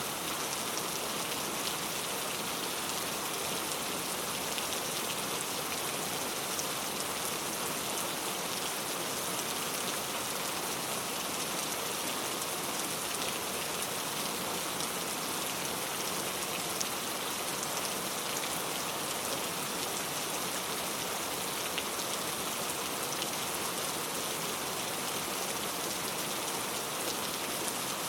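Steady rain falling: a dense, even hiss, brightest in the upper range, with the fine ticks of single drops scattered through it.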